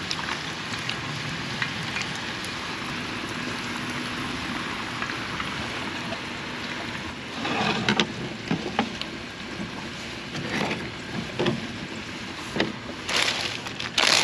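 Hot oil sizzling steadily as food fries in a pan, with a few short knocks and clatters about halfway through and again near the end.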